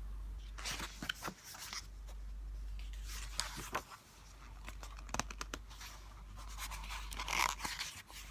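Close rustling and scratching handling noise with scattered sharp clicks, as of a book and its pages being handled, over a steady low hum.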